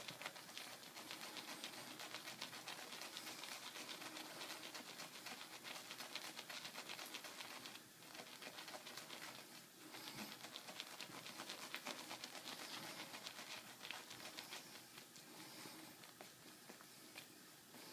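Badger shaving brush working Martin de Candre Fougère soap into lather: a soft, continuous wet crackle of tiny squishing clicks as the lather is built up, easing off briefly twice around the middle.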